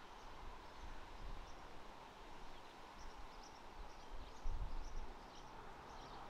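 Faint birdsong: small birds chirping again and again over quiet outdoor background noise, with a brief low rumble about four and a half seconds in.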